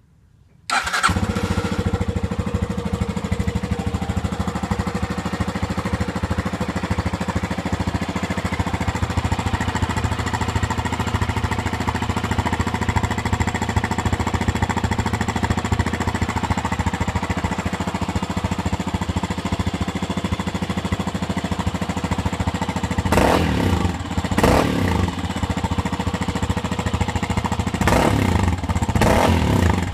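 Yamaha Serow 250's air-cooled single-cylinder four-stroke engine, breathing through a Delta Barrel 4 aftermarket muffler, starts about a second in and idles steadily, with a few short throttle blips near the end.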